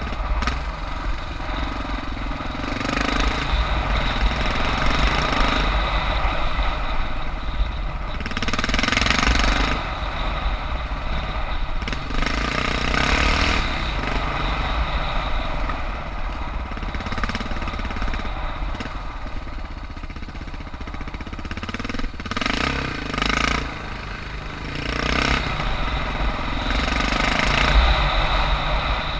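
Suzuki DR650's single-cylinder four-stroke engine running under way, rising and falling in loudness several times as the throttle is opened and closed.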